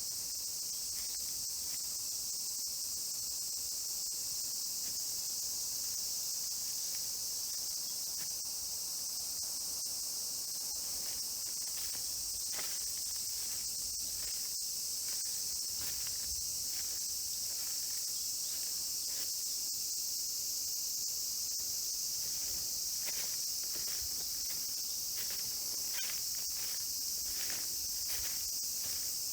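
Steady, high-pitched summer insect chorus. Short rustling noises come through it, more often in the second half.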